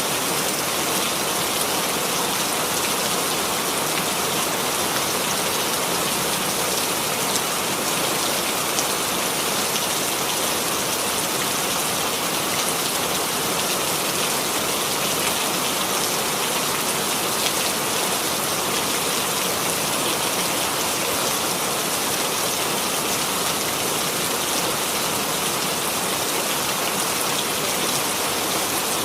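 Steady rainfall, an even dense hiss of drops with fine pattering specks.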